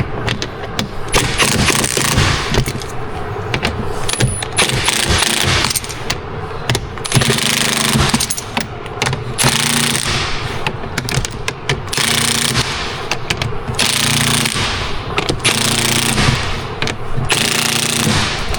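Impact wrench hammering bolts tight in repeated bursts of a second or two, with short pauses between fasteners. It is set low so the bolts don't twist off.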